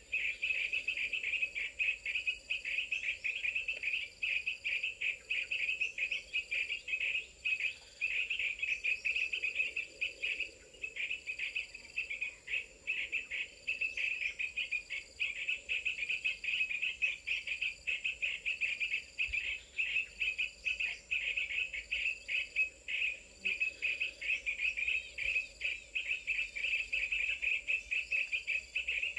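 Dense chorus of insects, cricket-like, with a fast pulsing trill that runs on without break. A faint short high note repeats evenly, a little under every second and a half.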